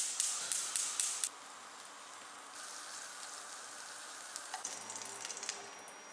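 Food sizzling in a hot pan, with a quick run of stirring or scraping strokes in the first second or so, then a steady faint sizzle with small pops.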